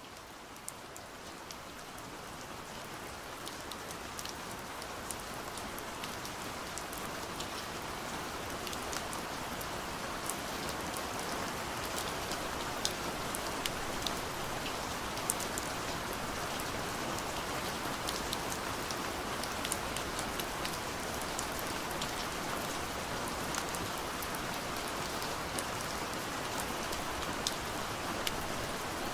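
Gentle rain falling steadily on a window, with individual drops ticking sharply against the glass. It fades in over the first few seconds, then holds steady.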